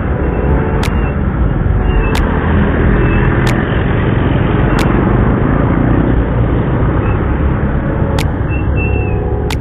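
Motorcycle riding along a road: steady rushing wind and road noise over the engine, with passing traffic.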